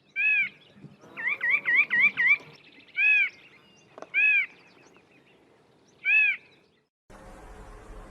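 Nuthatch calling: loud, clear whistled notes that rise and fall, given singly and once in a quick run of about five rising notes about a second in, then single notes every second or two. Near the end a steady low background hiss comes in.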